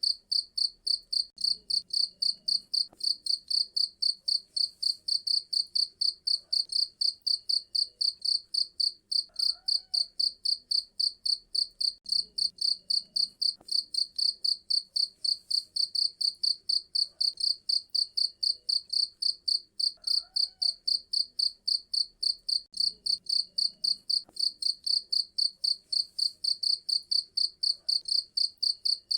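Cricket chirping: a high-pitched, very regular chirp repeated about three or four times a second, held at an even level throughout.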